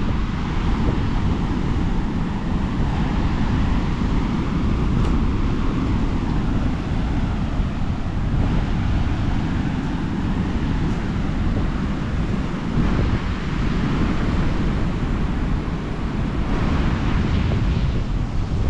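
Wind buffering the microphone with a steady low rumble, over the wash of rough, high surf breaking on the shore.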